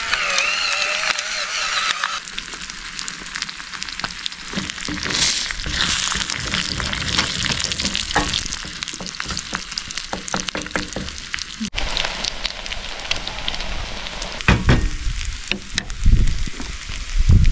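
Food sizzling steadily in a frying pan, with a few sharp clicks from a utensil against the pan. A brief wavering high-pitched sound is heard in the first two seconds.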